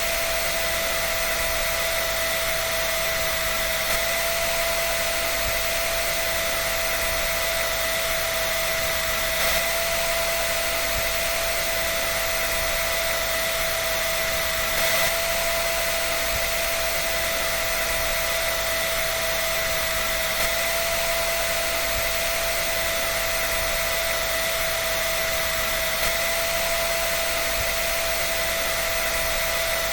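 A dryer running steadily: a constant rush of blown air with an unchanging whine.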